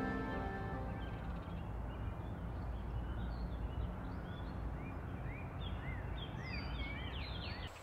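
Birds chirping in short, arched calls that come more often toward the end, over a steady low background rumble, as music fades out in the first second.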